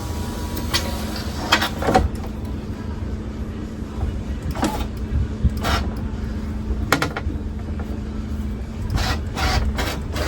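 Knocks and clatters of parts being handled inside a truck's driver's door while the window glass and its track are worked into place, over a steady low hum.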